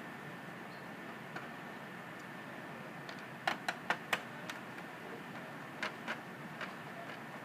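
Small sharp metal clicks and taps from screws and a screwdriver being worked on a steel computer case: four quick clicks about halfway through, a pair more a second and a half later, and a few fainter ticks.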